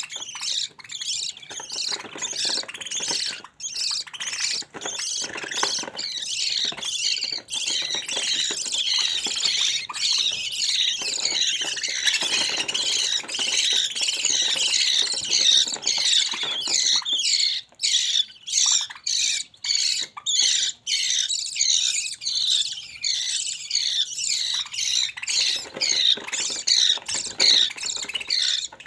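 Budgerigar chicks squawking and chirping continuously in a dense, high-pitched chatter of rapid short calls.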